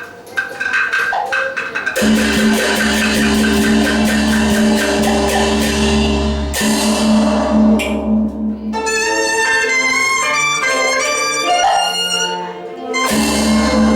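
Teochew opera ensemble playing. A few sparse percussion strikes open it. After about two seconds it turns loud: held melody notes over fast, even percussion, with a bright crash partway through. A lighter passage of stepping melody notes follows, and the full ensemble comes back in loud near the end.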